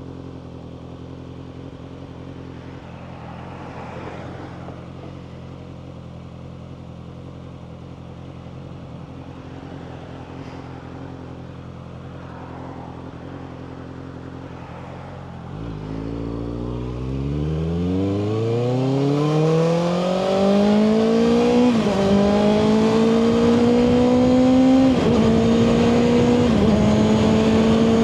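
2024 Kawasaki ZX-6R inline-four engine, through a Two Brothers slip-on exhaust, idling steadily, then pulling away about 15 seconds in and accelerating. The pitch rises, with short dips at three upshifts near the end.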